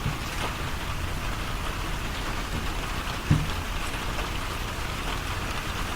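Steady rain falling, an even hiss with scattered drops ticking. A single soft thump a little past halfway through.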